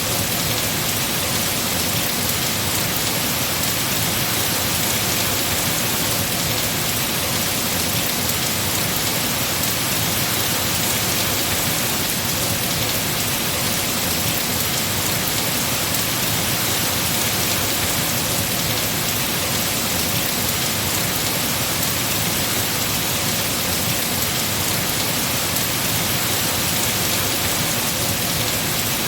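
Heavy rain falling steadily on trees, a dense, even hiss of drops with no letup.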